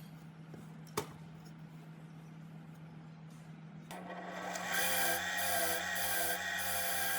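Abrasive rubbing, like sanding or filing on a part, starts about four seconds in and goes on in a regular rhythm of roughly two strokes a second, over a steady low hum. A single sharp click comes about a second in.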